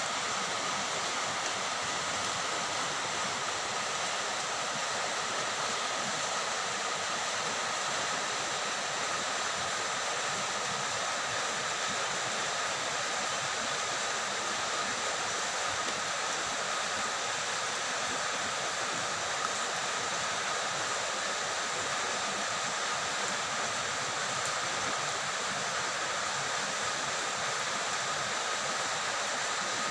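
Steady, continuous rain falling, an even hiss of water with no breaks.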